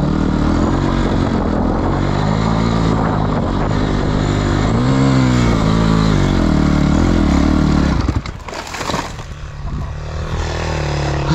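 Four-stroke Honda dirt bike engine running and revving up and down, with one clear rise and fall of revs about five seconds in. About eight seconds in the engine note drops and a brief rushing burst of noise passes. After that the engine runs on at a lower, steadier note.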